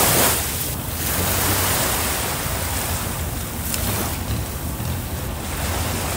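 Wind buffeting the microphone over rushing sea water, with a steady low hum underneath. The noise swells just as it begins and again about a second and a half in.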